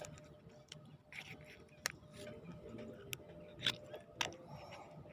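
Scattered faint clicks and taps, with a few sharper ones about two, three and a half, and four seconds in.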